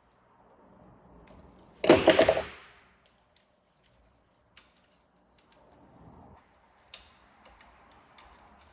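Hands-on workbench handling noises: a loud rattling clatter lasting about a second, about two seconds in, then scattered light clicks and taps.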